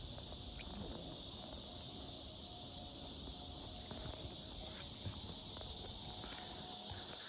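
Steady chorus of insects buzzing in the trees and grass, a continuous high hiss, with faint scattered ticks and shuffling.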